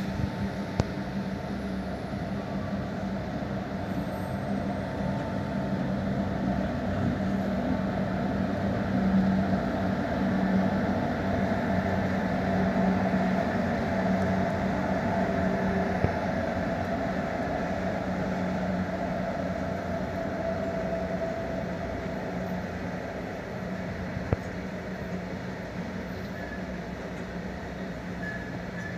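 Freight train rolling past: a steady rumble of wagons on the rails that swells through the middle and eases toward the end, with a few sharp clicks.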